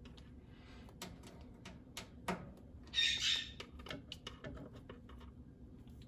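Conure giving one short, harsh squawk about three seconds in, among scattered light clicks and taps.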